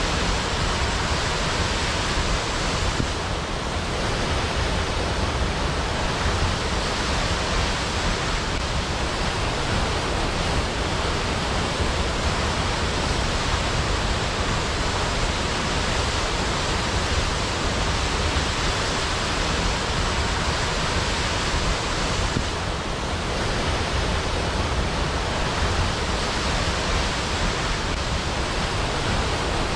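Waterfall: a steady, even rush of falling water with a strong low rumble beneath it. It eases slightly twice, briefly.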